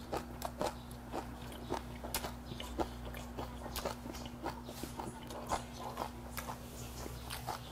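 A man chewing a mouthful of food close to the microphone: irregular small clicks and smacks, several a second.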